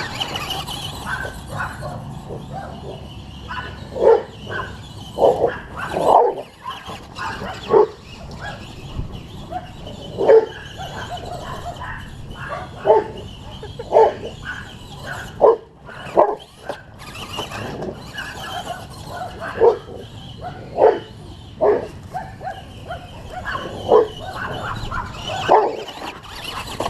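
Dogs barking in excited play, short sharp barks every second or two with brief gaps between them.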